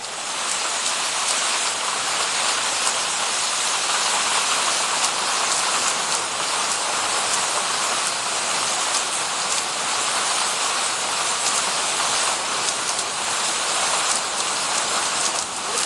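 Spring water streaming and splashing, a steady, even rush of falling water.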